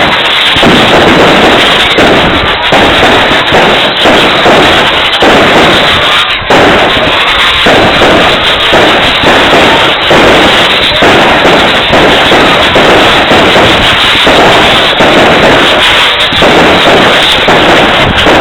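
Fireworks going off in a rapid, continuous barrage of bangs and crackling, loud throughout with no pause.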